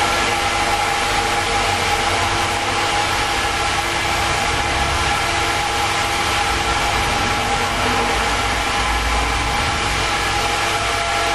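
Paint-spraying outfit running steadily: the air supply's motor holds an even hum with several steady tones, over the hiss of air and engine enamel leaving the spray gun.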